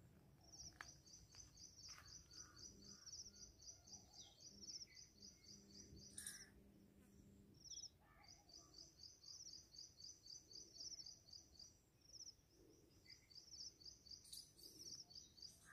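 Faint birdsong: a bird repeating rapid, high chirps in long runs of several seconds with brief breaks, with a few other scattered bird calls.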